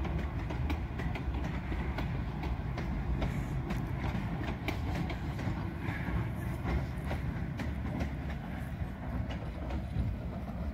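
Cumbres & Toltec narrow-gauge passenger cars rolling past: a steady low rumble of wheels on rail, with frequent clicks as the wheels cross the rail joints.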